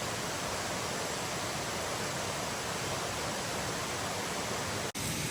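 Waterfall rushing: a steady, even wash of falling water that cuts out for an instant near the end.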